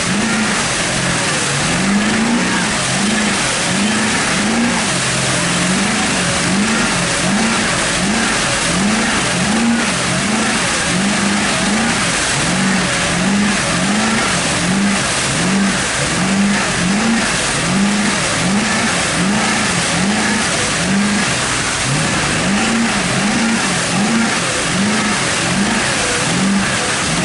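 Diesel engine of a Ford F-250 mega truck working in deep mud, its revs rising and falling over and over, a little more than once a second, under a steady wash of noise.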